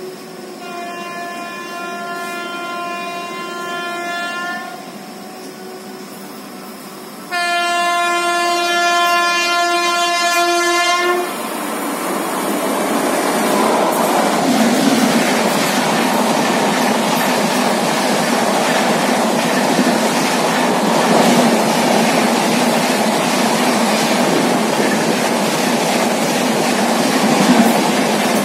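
A WAP-7 electric locomotive's horn sounds for about four seconds, then again about seven seconds in, louder and for about four seconds, as the oncoming express closes in on the adjacent track. From about twelve seconds in, the loud rush and rattle of the express's coaches passing close by at speed follows, with wheels clacking over the rail joints.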